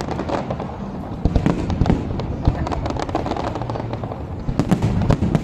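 Aerial fireworks display: a dense, continuous run of crackling pops and bangs, with a thick cluster of sharp cracks near the end.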